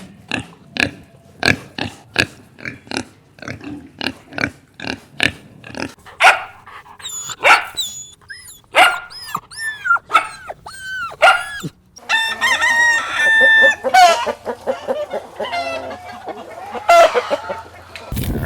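Farm animals calling: a quick run of short, sharp calls about three a second for the first six seconds, then a string of separate calls that rise and fall in pitch, then a busier stretch of overlapping calls over a low hum.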